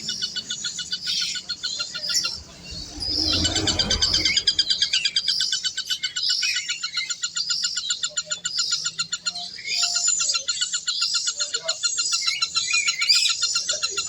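Birds chirping, many rapid repeated high notes overlapping throughout, with a brief low rumble about three to four seconds in.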